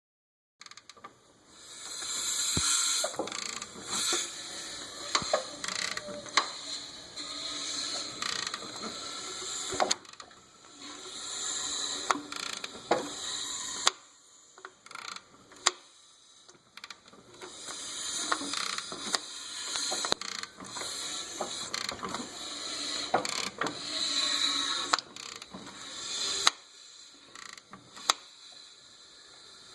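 Nissan Titan's V8 engine running with a clattering rattle from the timing chain, swelling and fading in spells and studded with sharp clicks; the rattle is the sign of a stretched timing chain.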